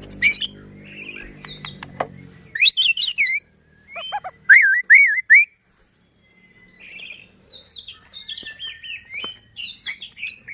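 White-rumped shama (murai batu) singing loud, varied phrases of clear whistles, rising-and-falling warbles and quick trills, with a short pause about halfway. A low steady hum sits under the first two seconds.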